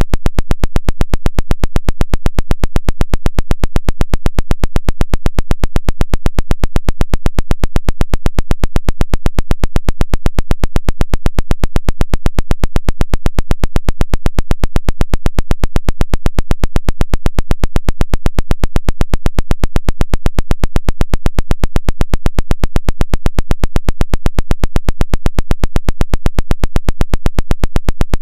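The 'Woodpecker' pulsed radio signal: a loud, rapid, perfectly even train of sharp buzzing pulses that repeats without change.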